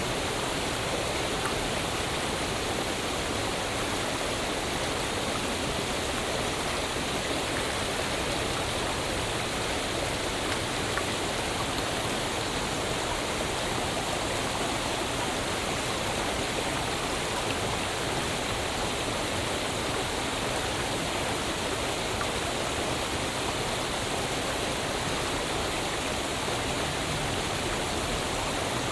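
Waterfall: water falling and rushing in a steady, unbroken noise, with no single splashes standing out.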